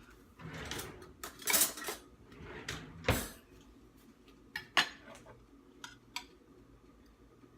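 Cutlery scraping and clinking against a dish: several scrapes in the first three seconds, then a few short sharp clicks.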